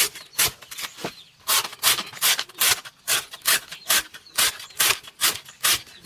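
A blade chopping rapidly through banana stem, about four sharp strokes a second, with a short pause about a second in.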